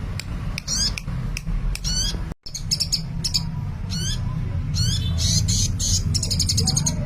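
Sunbird (Indonesian 'kolibri') singing actively: rapid high chirps and short zigzag trilled phrases, with a dense buzzy run of notes about five seconds in. A steady low hum runs underneath, and the sound cuts out for an instant about two and a half seconds in.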